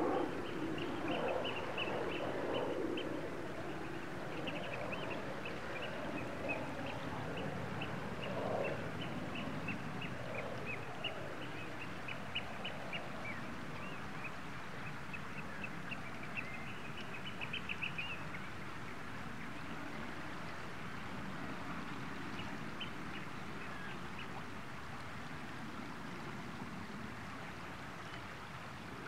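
Birds calling over a steady background hiss: low calls in the first several seconds and a fast run of short high chirps that fades out about two-thirds of the way through.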